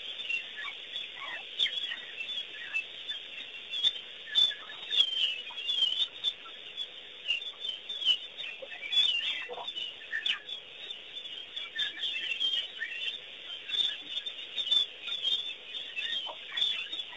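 Birds chirping and calling together around a waterhole, a dense chorus of many short, high chirps overlapping one another.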